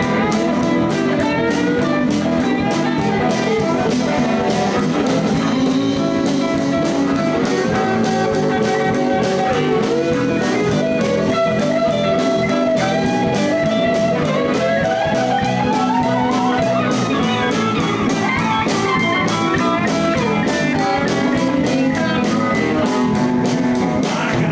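Live blues band playing an instrumental break: a lead line with bent notes over a steady drum beat, bass and rhythm guitar.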